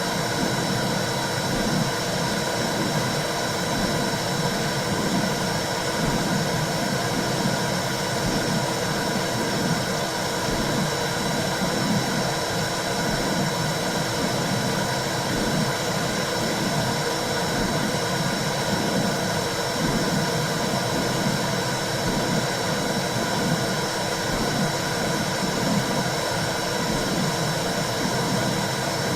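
Womb sound for soothing a newborn: a low whooshing that swells and fades in a steady repeating rhythm, over a continuous hiss with a faint high steady tone.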